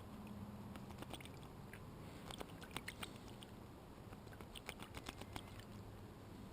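Faint, scattered small clicks and light water patter from an American robin splashing in a bird bath, coming in a few short clusters.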